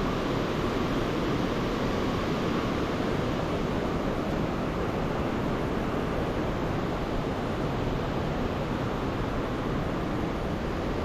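Mountain river in flood, swollen and muddy after a typhoon, rushing steadily as a loud, even roar of water.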